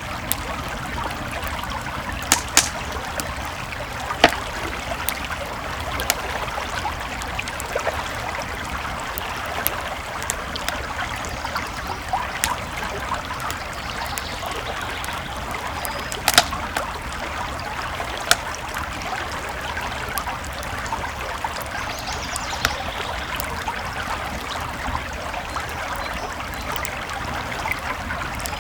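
Campfire crackling with sharp irregular pops, a few louder than the rest, over the steady rushing of a creek flowing nearby.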